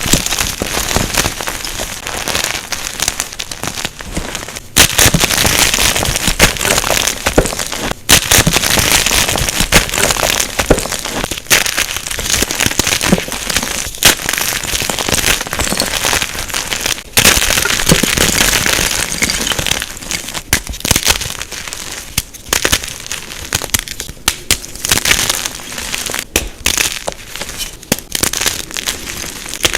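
Unpolished jumbo gym chalk blocks being crushed by hand: a dense, continuous crunching and crackling with many sharp snaps. It is loudest in the first half and softer in the second.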